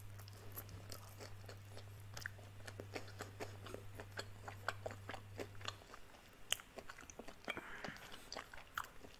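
Close-up chewing of a crispy breaded fried chicken wing: a quick, irregular run of small crunches and crackles from the coating.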